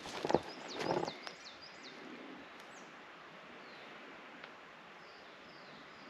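Wild songbird calls: a quick run of high rising chirps about half a second in, then a few fainter single falling chirps, over a faint steady hiss of outdoor air. A few short scuffs and knocks in the first second.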